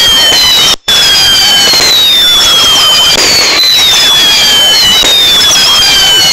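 Fireworks going off in a dense, continuous crackle, very loud, with whistles that fall in pitch one after another. The sound cuts out for an instant about a second in.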